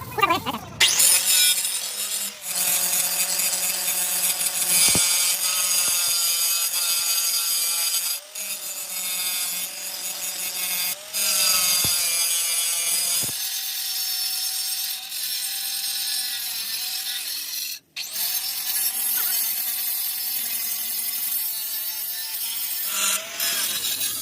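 A power tool working metal, its motor note sagging and recovering as it bears on the work. It stops briefly several times, with one short, sharp cutoff about three-quarters of the way through.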